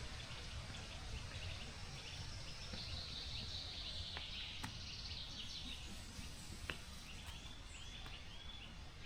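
Quiet forest ambience: faint bird calls and chirping over a low steady hiss, with a short run of repeated bird notes near the end and a few soft clicks.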